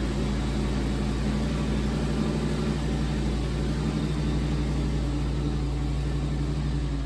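Lamborghini Gallardo's V10 engine idling steadily while warming up after a cold start.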